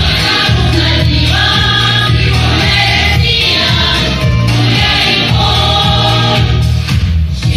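A vocal group singing together, several voices in chorus, over a loud music accompaniment with a strong pulsing low end.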